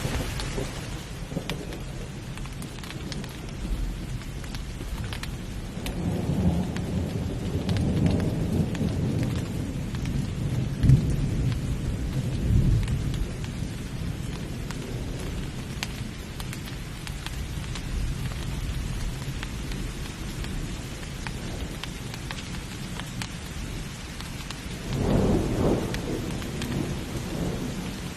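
Steady heavy rain hissing, with rolls of thunder: a long low rumble from about six seconds in that swells and fades by about thirteen seconds, and a shorter rumble near the end.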